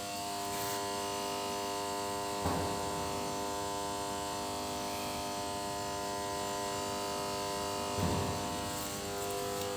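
Generators running with a steady buzzing hum, with two brief thumps about two and a half seconds and eight seconds in.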